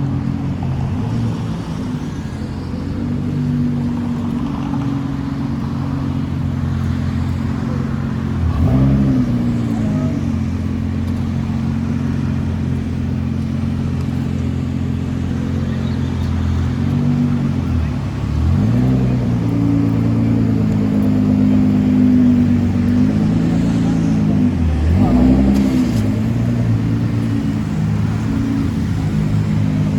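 Car engine running steadily at moderate revs. Its note briefly drops and climbs back up three times.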